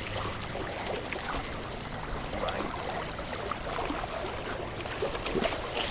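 Steady rush of wind on the microphone mixed with small waves lapping at the lake shore.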